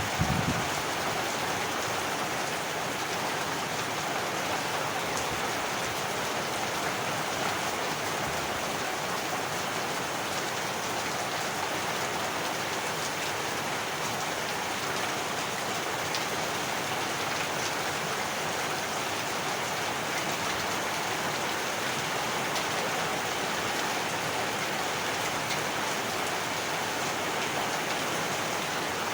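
Heavy rain falling steadily, an even hiss of many drops on surfaces. There is a brief low thud right at the start.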